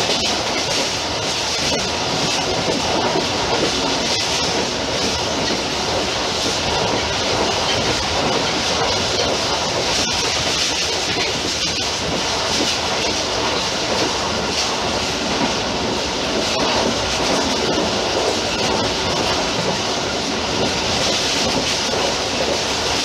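Passenger coaches of a moving train running at speed: steady noise of wheels on the rails, heard from the rear end of the train.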